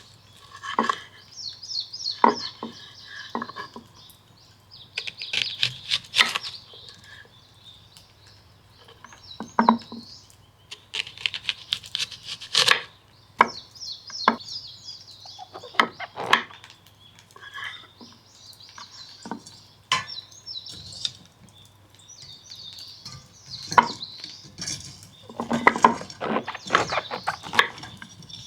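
Clinks and knocks of dishes, pots and utensils being handled at irregular intervals. Birds are chirping throughout.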